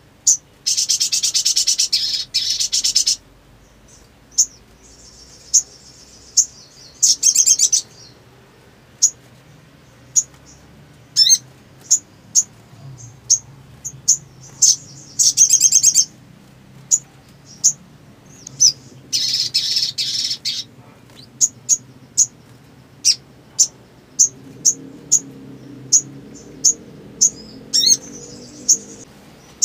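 Little spiderhunter (sogon) calling: a run of sharp, high single chips about every second, broken by several fast, dense chattering trills of one to two seconds each.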